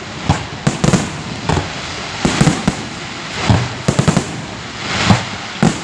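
Fireworks display: shells bursting in a continuous string of sharp bangs, many coming in quick crackling clusters about once a second.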